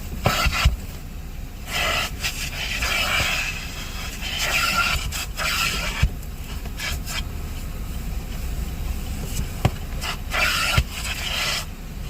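Repeated scraping and rubbing on a surface, in uneven strokes of one to two seconds, with a few sharp knocks in between.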